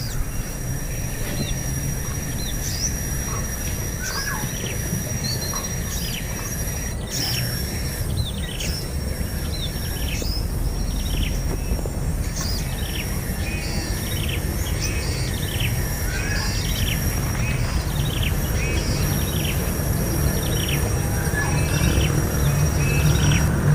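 A bird chirping over and over in short, falling chirps, about one or two a second, over a steady low rumble. A thin, steady high whine runs alongside until about seven seconds in.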